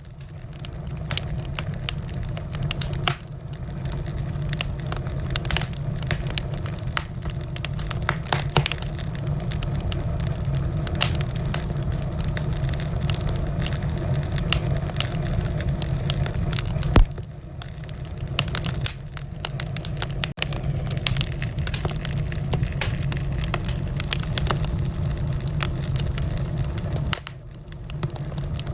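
Wood fire crackling in a fireplace: a steady low rumble of burning with frequent sharp pops and snaps, one louder pop a little past the middle.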